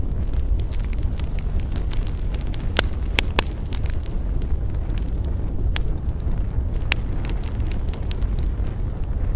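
Campfire burning: a steady low rumble of flames with irregular sharp crackles and pops from the burning wood, a few louder pops about three, five and a half and seven seconds in.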